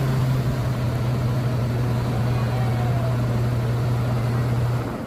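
Mitsubishi Fuso HD truck's diesel engine running hard at steady high revs while the stuck truck is rocked to try to get free, then dropping off sharply near the end.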